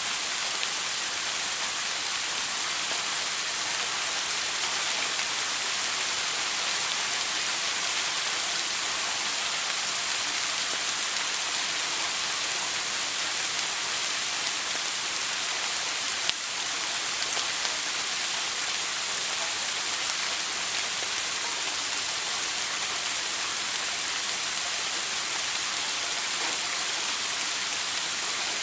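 Shower water spraying steadily, an even, dense hiss of falling water. One brief click about sixteen seconds in.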